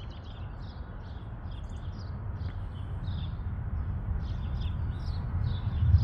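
Songbirds chirping in the background, short high notes scattered throughout, over a steady low rumble that grows a little louder over the few seconds.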